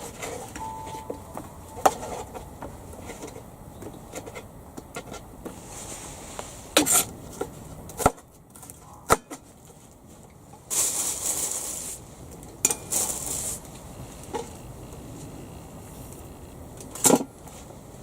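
Scattered clinks and knocks of cookware and utensils being handled, with two short bursts of hissing a little past the middle.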